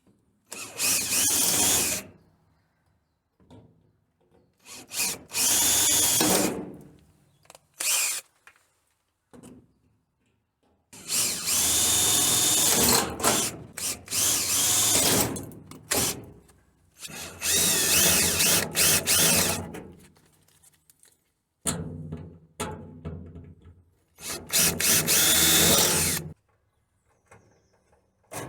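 Power drill drilling out the rivets that hold a kit car's wheel arch and body panel to the frame. It comes in about seven separate bursts, the longest around five seconds, with short pauses between them.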